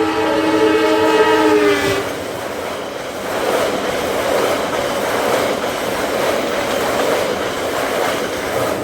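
Train horn sounding a long, multi-tone blast that dips in pitch as it cuts off about two seconds in, followed by the steady rumble and clatter of the train rolling past.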